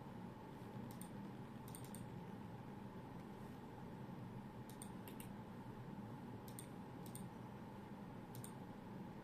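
Quiet room tone with a steady low hum, broken by faint, sharp high-pitched clicks that come singly or in small clusters every second or two.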